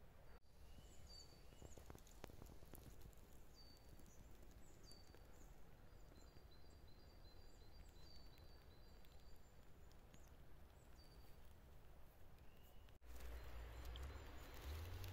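Near silence: faint outdoor ambience with short, high bird chirps in the distance. About two seconds before the end a low rumble comes in.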